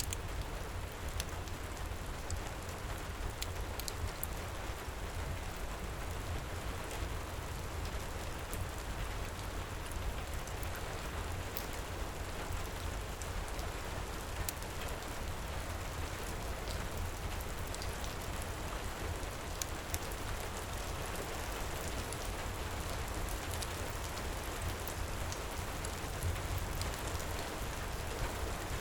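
Heavy rain falling steadily, with scattered small crackles and ticks from a fireplace fire over a constant low rumble.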